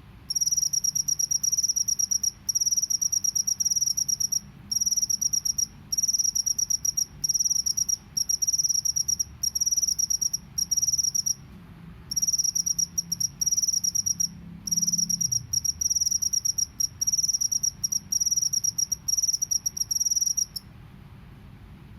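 Field cricket chirping in a rapid high trill, broken into bouts of about a second with short pauses between them; the calling stops near the end.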